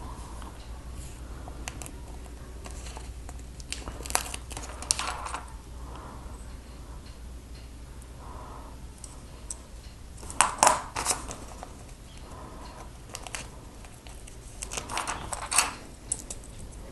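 Lego stickers being peeled from their backing sheet and pressed onto plastic pieces: short crinkling rustles and small clicks in three clusters, the loudest about ten seconds in, over a low steady hum.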